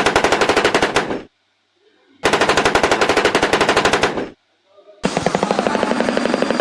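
Three bursts of rapid rattling, about fifteen pulses a second, like machine-gun fire. Each lasts a second and a half to two and a half seconds, with short pauses between. The third burst has a duller edge.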